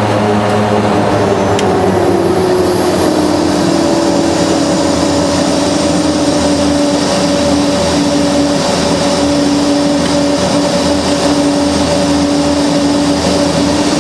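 Mitsubishi MU-2's Garrett TPE331 turboprop engine and four-bladed propeller running on the ground. Its tone and high whine glide down in pitch over the first few seconds, then hold steady.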